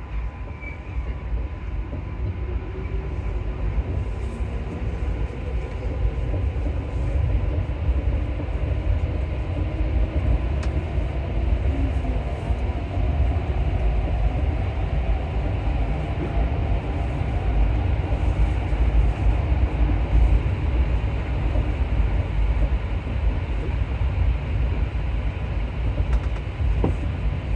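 Alstom MP14 rubber-tyred metro train running through a tunnel between stations, a loud steady rumble with a faint whine that rises and falls in pitch.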